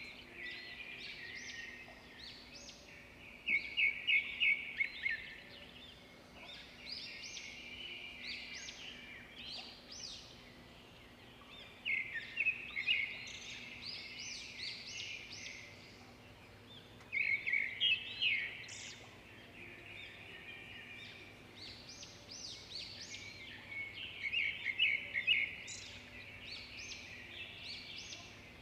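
Small birds chirping throughout, with louder rapid runs of chirps about every six seconds.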